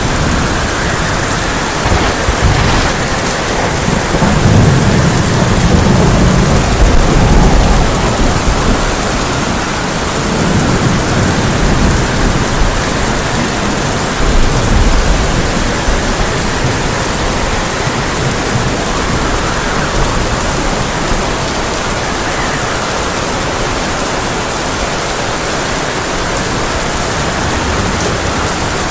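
Heavy rain pouring steadily onto a tin roof, with thunder rumbling low and rolling through the first half, swelling a few times.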